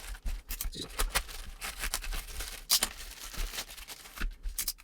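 Plastic packaging being handled and opened by hand: irregular crinkling with sharp clicks, the loudest a little under three seconds in.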